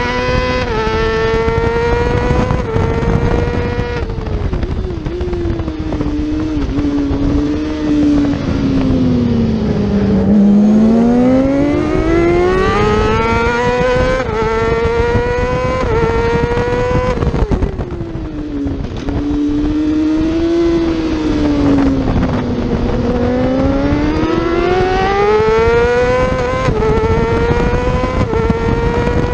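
Yamaha R6 600cc inline-four race engine at high revs, climbing in steps through quick upshifts, then dropping through downshifts into a corner, twice over, and pulling back up on the throttle out of each.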